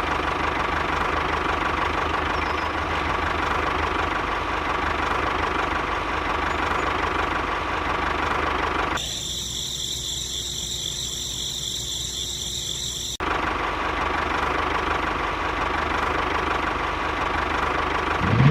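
A small motor running steadily. For about four seconds in the middle it gives way to a higher, buzzier machine sound, then the steady running returns.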